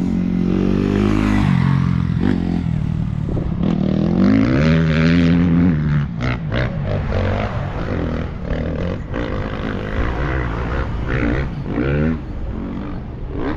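Motorcycle engine revving, its pitch rising and falling several times, with a run of clattering clicks midway.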